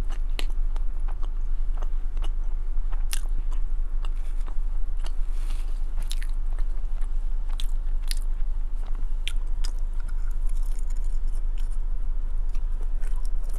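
Close-miked chewing and biting of chili cheese fries, with scattered small clicks and scrapes of a plastic fork on a paper plate, over a steady low hum.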